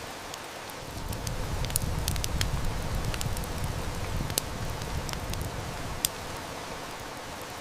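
Steady hiss of heavy rain with a wood fire crackling and snapping over it in sharp, irregular pops. A low rumble swells about a second in and fades around six seconds.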